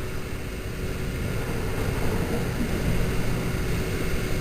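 A steady low mechanical drone with a faint constant tone running through it.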